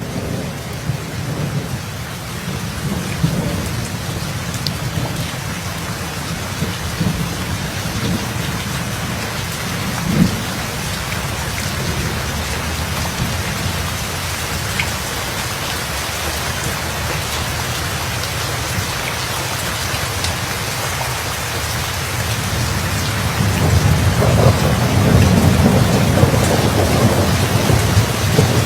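Steady heavy rain hissing, with thunder rumbling low beneath it; a few sharp cracks in the first ten seconds, and a longer, louder roll of thunder building from about 23 seconds in.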